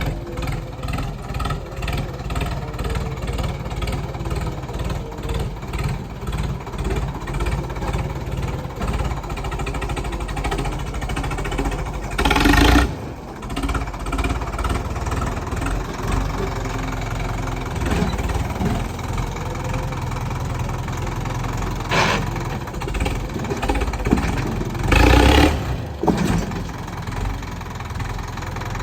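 Tractor engine running steadily under work, with two louder surges about a second long, one near the middle and one near the end.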